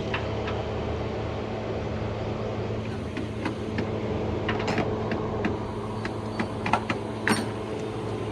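Steady low mechanical hum with scattered sharp clicks and knocks, the loudest about six and a half and seven seconds in.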